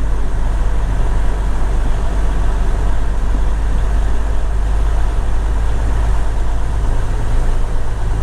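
Semi truck's diesel engine running steadily with a low, even rumble.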